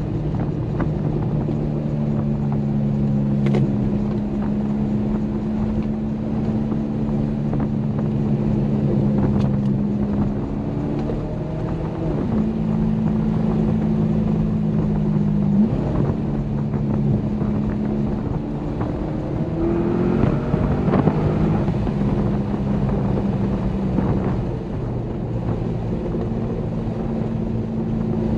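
Corvette C6 Grand Sport's 6.2-litre LS3 V8 running steadily under way, heard from inside the car over road noise. The engine note dips briefly about twelve and sixteen seconds in, and climbs about twenty seconds in as it revs up.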